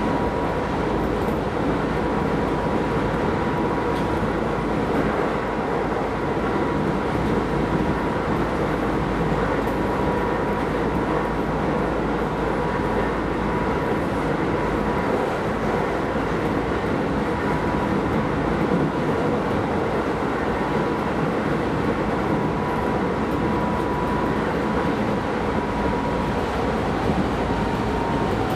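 Keisei Line electric commuter train running along the track, heard from inside the car: a steady rumble of wheels and running gear with a thin, steady high whine.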